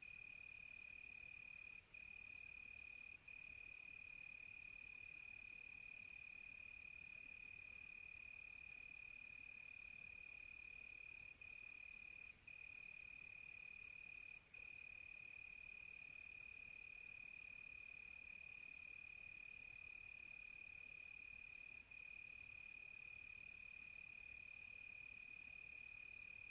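Crickets chirring in one steady, unbroken high trill, with a fainter high insect hiss behind it. A second, higher insect call pulsing rapidly joins about a third of the way in and stops about seven seconds later.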